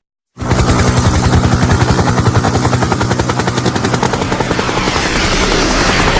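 Helicopter rotor blades chopping rapidly over a steady engine and turbine drone. The sound starts abruptly about half a second in and then runs loud and even.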